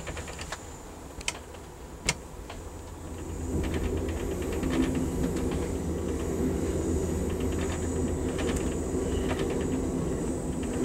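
Amtrak passenger train running on the rails, heard from inside a car, with two sharp clicks in the first couple of seconds. About three and a half seconds in, the rumble grows louder and stays up as the train enters a tunnel and the noise comes back off the tunnel walls.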